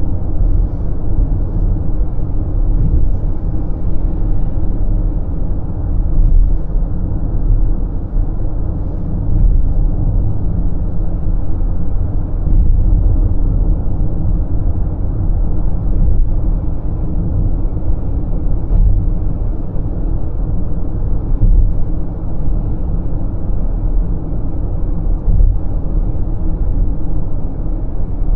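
A BMW X5 M50i cruising at highway speed: a steady low rumble of tyres, road and its twin-turbo V8.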